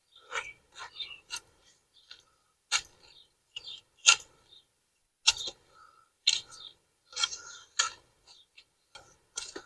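Cut sod being lifted and pulled up from the lawn: short, irregular tearing and scraping sounds, roughly one every second, as grass roots rip free of the soil.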